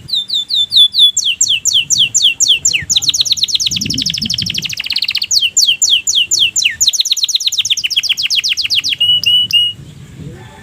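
Domestic canary singing: rapid trills of repeated sweeping notes, changing from one phrase to the next, with a very fast, dense trill in the middle. The song stops about a second before the end.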